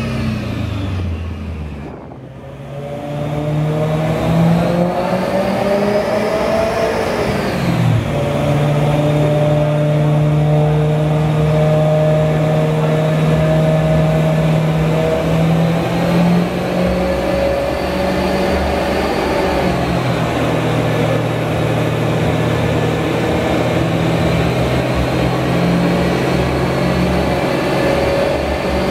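BMW E92 M3's S65 V8 through an Eisenmann Race exhaust with X-pipe: the revs fall and dip about two seconds in, climb for about five seconds, drop briefly as a gear changes, then hold high and steady under load with only slight changes.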